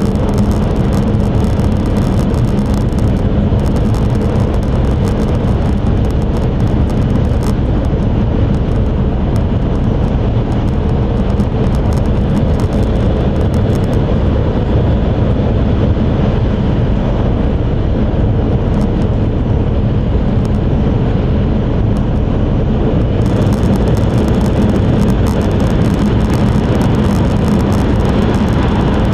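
Cabin noise inside an E5 series Shinkansen running at high speed: a steady low rumble and rushing hiss of wheels on rail and air along the body, with the highest hiss dimming for several seconds midway.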